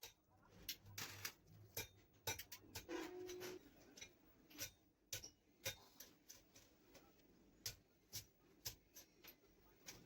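Faint, irregular light clicks and taps, about two a second, from hand work on a metal bus engine rocker arm, with a brief low hum about three seconds in.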